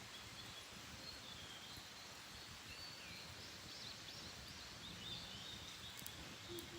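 Faint wild birdsong: repeated short high chirps and warbled phrases, busiest in the middle, over a low outdoor hush, with a couple of faint clicks near the end.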